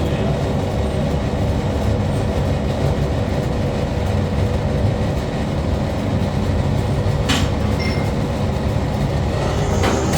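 Factory machinery running with a steady low rumble, with two sharp clanks, one about seven seconds in and one near the end.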